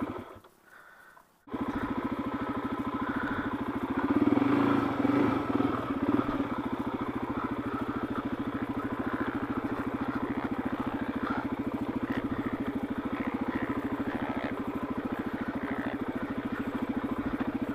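Suzuki DR-Z400S single-cylinder four-stroke engine on its stock exhaust, running at a steady, even speed. The sound drops out almost to silence for about the first second and a half, and swells a little louder around four to six seconds in.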